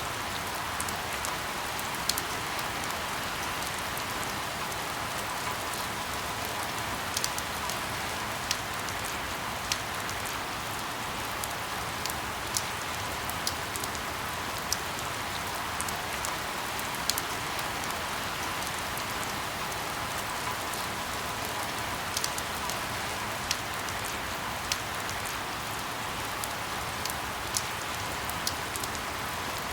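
Steady rain falling, with frequent sharp drips and drop impacts standing out irregularly against the even hiss.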